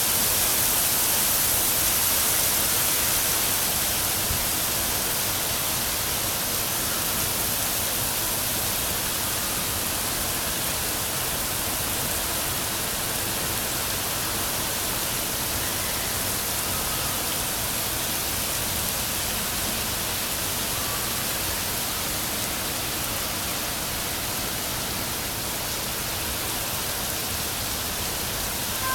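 Heavy rain falling steadily, an even hiss with no separate drops standing out, slightly louder in the first few seconds.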